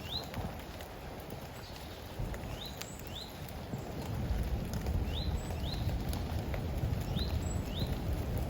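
A small songbird calling in pairs of short rising notes, a pair about every two to three seconds, over the patter of rain in woodland and a low rumble that grows louder about halfway through.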